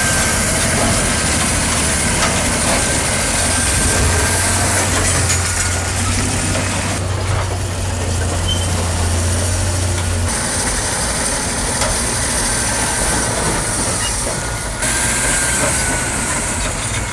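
Heavy tracked earthmoving machinery running: a steady diesel engine drone with rattling and hiss. The sound changes abruptly a few times, as clips are cut together.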